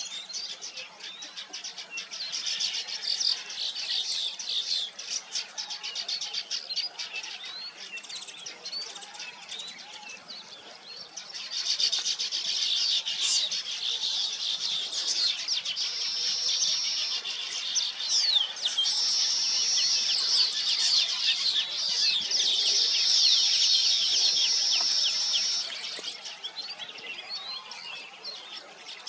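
A colony of weaver birds chattering, a dense unbroken mass of rapid high chirps. About twelve seconds in it grows louder, with long high held notes among the chirps, and it eases back a few seconds before the end.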